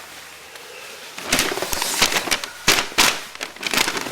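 Wrapping paper being torn and crinkled: a run of sharp rips and rustles starting about a second in.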